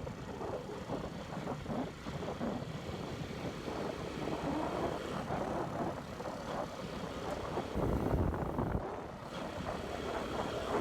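Forte Alpha 125 cc single-cylinder four-stroke motorcycle running under way, with wind buffeting the microphone in gusty low rumbles.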